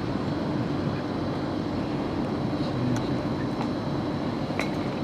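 Steady low rumble with no breaks, with a few faint clicks about three seconds in and near the end.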